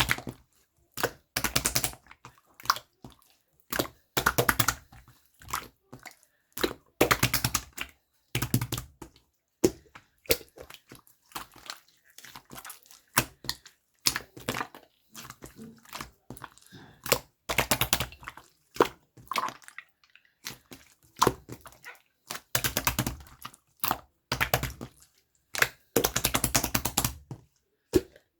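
Slime being squeezed and pressed by hand, making repeated short bursts of wet clicking and popping from trapped air, with brief quiet gaps between them.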